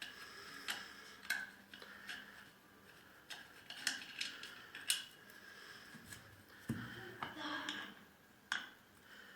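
Scattered metallic clicks and clinks of a hand tool working the screws on a clover mower's engine, with a few short ringing taps of metal on metal.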